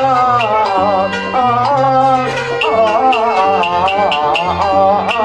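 Instrumental interlude of Cantonese opera song accompaniment between sung lines: a wavering, sliding melody over stepping low bass notes, with light regular ticks.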